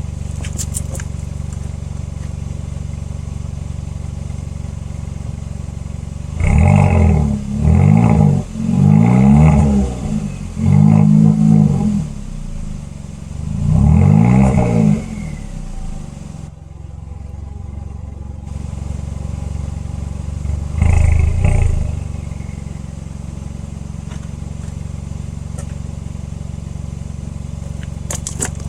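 2021 Kia Forte GT's 1.6-litre turbocharged four-cylinder idling from a cold start, then revved in five quick blips about a third of the way in and once more later, dropping back to idle after each.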